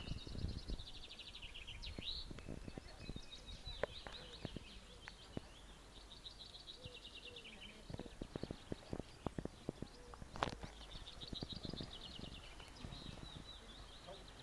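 A songbird singing a short trilled phrase about three times, while footsteps and small knocks sound from someone walking.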